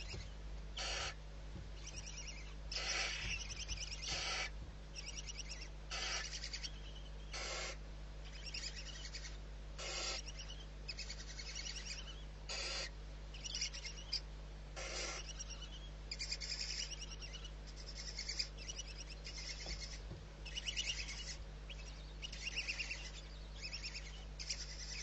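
Barn owl calling: short harsh bursts every one to three seconds, then rapid, rattling high-pitched calls through the second half, over a steady low hum.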